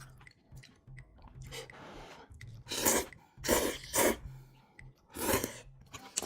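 Close-miked eating sounds: chewing with small mouth clicks, broken by four loud, short noisy bursts a little after the middle.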